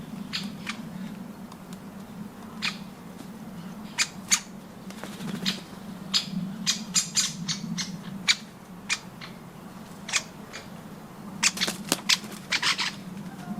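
Birds at a nut feeder: a run of short, sharp clicks and taps at irregular spacing, coming thicker in the second half, over a steady low hum.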